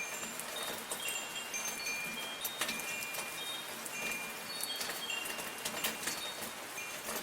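Metal wind chimes ringing in scattered, overlapping high tones, each struck note ringing on briefly, over a steady hiss of light rain.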